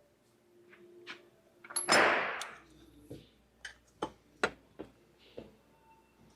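Hands working the plastic electrical connectors and wiring harness at the alternator: a short scraping rasp about two seconds in, then a run of sharp separate clicks and taps as the connectors are worked loose.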